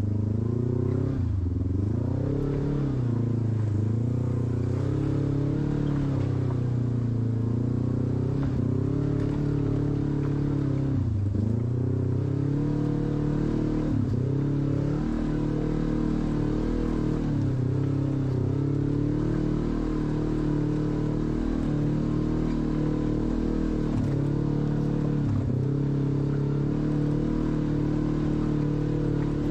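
Off-road vehicle engine running under constantly changing throttle, its pitch repeatedly dipping and rising again as the driver works the throttle on the trail.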